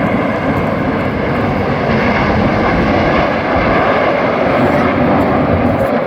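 A formation of BAE Hawk T1 jet trainers flying past, giving a loud, steady jet engine noise that rises just as it begins and holds throughout.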